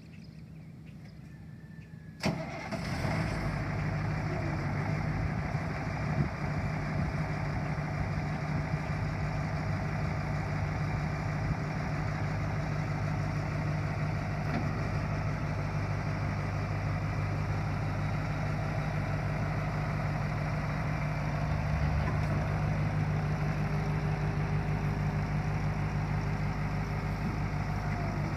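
1990 Ford C8000 bucket truck's engine starting about two seconds in, then settling into a steady idle.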